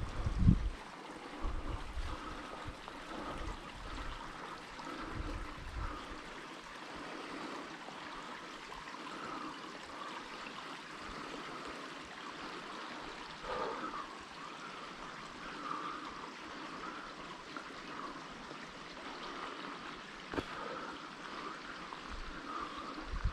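Steady rush of running water, like a small stream, with a few low thumps in the first seconds, the loudest about half a second in.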